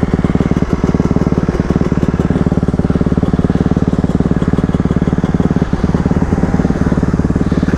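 Dirt bike engine running at a steady, low throttle with a fast, even pulse, holding much the same pitch throughout.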